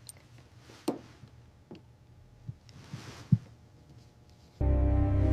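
A few faint, short knocks and soft low thumps. Near the end, music comes in suddenly: a steady low drone with held tones.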